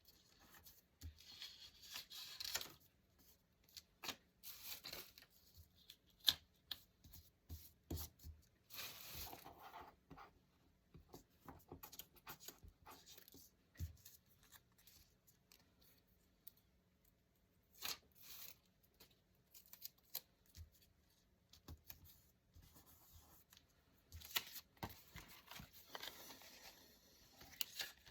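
Paper being handled and torn for a handmade journal: short, quiet scratchy tearing and rustling bursts with scattered light taps and clicks between them.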